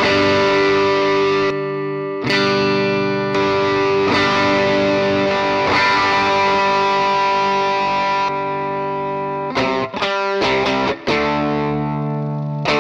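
Electric guitar played through a DemonFX Gravity effects pedal: long sustained chords ringing out, changing about two seconds in, then a few quick strummed strokes near the end before a new chord rings.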